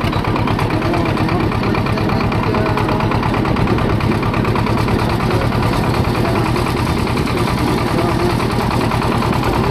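Swaraj 724 tractor's two-cylinder diesel engine running steadily with a fast, even beat.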